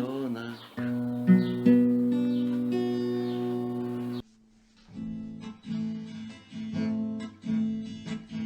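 Acoustic guitar: a closing chord rings out and cuts off suddenly about four seconds in. After a second's pause, a new song's intro begins with evenly spaced strummed chords.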